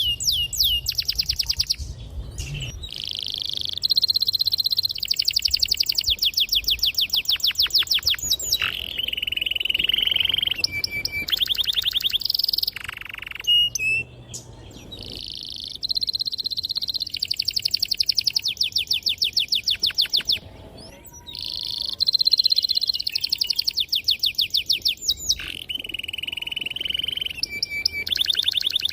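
Domestic canary singing a long song of fast rolling trills broken by held whistled notes, with brief pauses between phrases.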